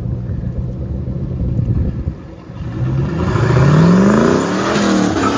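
Turbocharged 5.2-litre Magnum V8 in a Dodge Dakota on a chassis dyno: it runs steadily, dips briefly, then revs up in a pull, its pitch climbing for about two seconds. A high whine rises with it near the end, and then the pitch breaks off.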